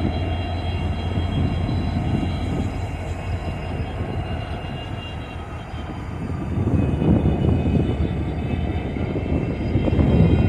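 Diesel locomotives of a freight train running with a steady low engine drone and faint high steady tones, growing louder and rougher about six seconds in.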